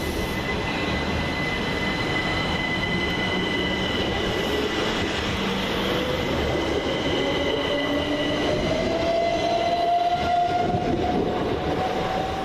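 Southern Class 377 Electrostar electric multiple unit pulling away, its traction motors whining in a steadily rising pitch as it gathers speed. Steady high-pitched tones and the rumble of the wheels run underneath.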